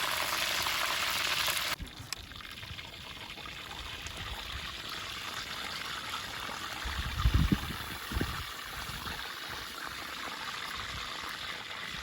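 Chicken frying in hot oil over a fire, a loud even sizzle that cuts off suddenly about two seconds in. A softer steady hiss follows, with a few low thuds a little past the middle.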